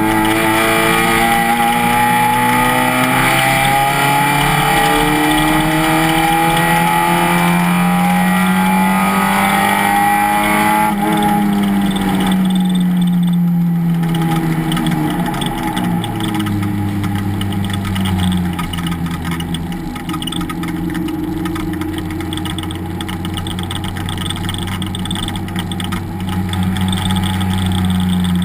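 Race car engine at full throttle, its pitch climbing steadily for about ten seconds on a long pull. Then the revs fall away as the driver lifts off, and the engine holds lower before building again near the end.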